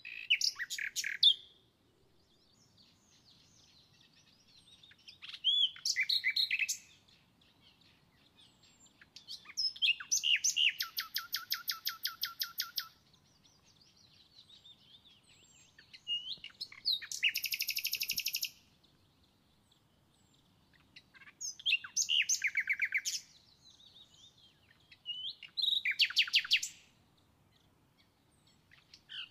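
A songbird singing in separate phrases about every five seconds. Each phrase is a short whistled note followed by a rapid trill of repeated notes, the longest lasting about three seconds.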